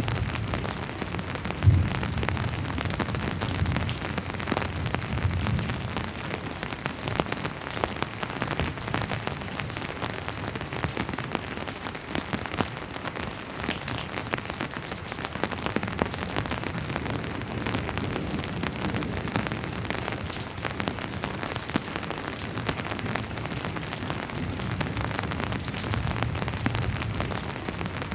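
Steady rain falling, a dense patter of individual drops striking a surface, with a low rumble now and then under it. One sharper, louder drop or knock about two seconds in.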